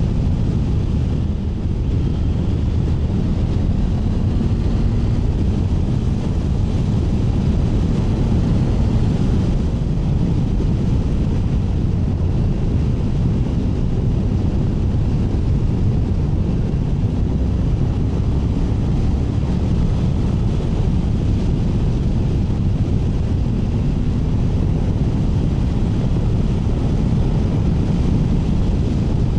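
Triumph Tiger 900 Rally Pro's inline three-cylinder engine running steadily under way, mixed with wind rush on the rider's microphone.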